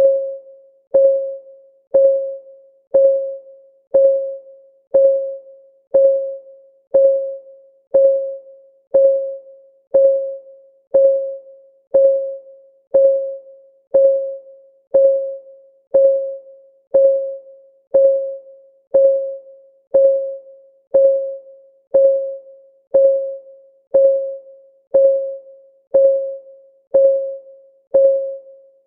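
Clock-ticking sound of a countdown timer: one tick every second, evenly, each a sharp click with a short mid-pitched ring that dies away.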